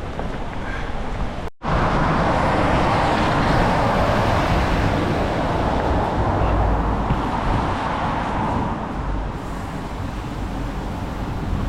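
Steady rushing noise of cycling in heavy rain: rain and wind on the camera microphone and wet tyres on the path. There is a very brief break in the sound about a second and a half in.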